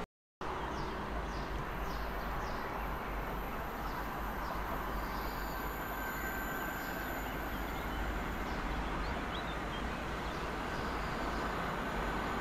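Electric-hauled freight train approaching from a distance: a steady rumble of wheels on rail that slowly grows louder.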